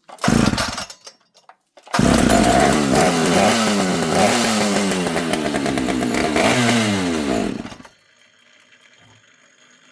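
Pioneer two-stroke chainsaw being pull-started: a short burst on a first pull, then it catches and runs for about six seconds, its speed wavering up and down, before it dies out. It is running only on the priming fuel, because the fuel line is not connected and it cannot pick up fuel from the tank.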